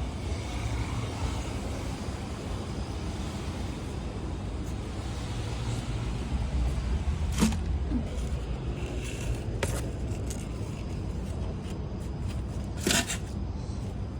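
Wind buffeting the microphone as a steady, uneven low rumble, with three sharp clicks or taps: one about halfway, one shortly after, and one near the end.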